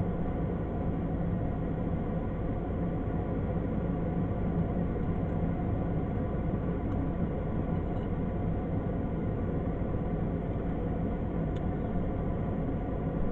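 Steady vehicle hum with a light hiss, running evenly with no change in pitch or level, like a car interior with the engine or air conditioning running.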